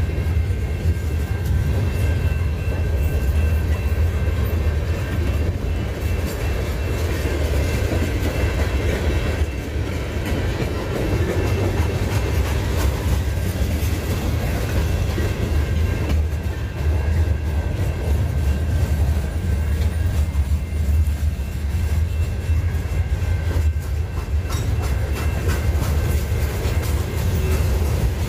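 Freight train rolling past, its cars giving a steady low rumble with clickety-clack over the rail joints, and a faint steady high tone above it.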